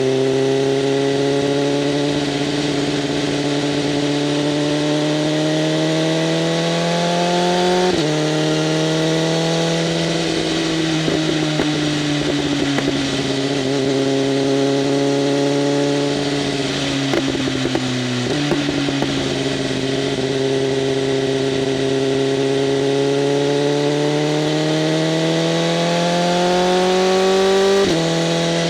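BMW M1000RR's inline-four engine running through an SC-Project CRT exhaust with its flaps open while riding. The pitch climbs slowly under light acceleration, eases down for a stretch in the middle, and drops suddenly at gear changes about 8, 18 and 28 seconds in.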